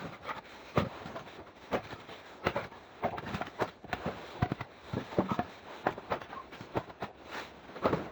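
A series of irregular knocks and clicks, roughly two a second, some with a short ringing note.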